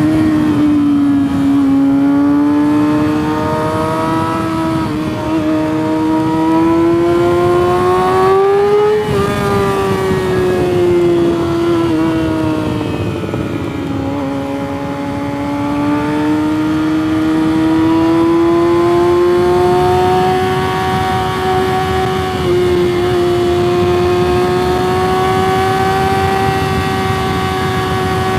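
Yamaha sport motorcycle engine running hard while riding, its pitch rising and falling with the throttle, easing off twice, about nine and fourteen seconds in, then climbing steadily. Wind rushes underneath the engine note.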